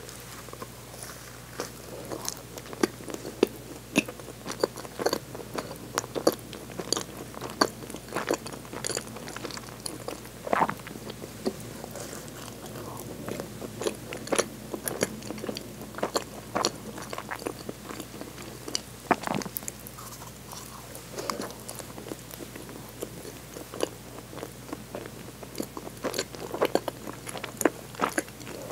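Close-miked chewing of a soft bread bun. It gives many irregular wet mouth clicks and smacks, a few every second.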